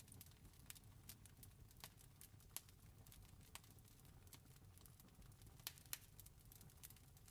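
Faint wood fire crackling: scattered, irregular sharp pops over a low steady rumble, with a couple of louder pops close together about three-quarters of the way through.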